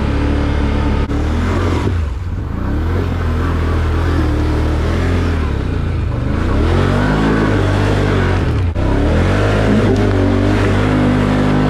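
Off-road vehicle's engine running as it drives along a dirt trail, its pitch rising and falling a few times in the second half as the throttle is opened and eased off.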